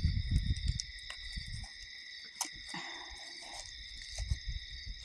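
Night insects, crickets, trilling steadily in several high tones. A low rumble on the microphone fills the first second and a half, and a few faint ticks follow.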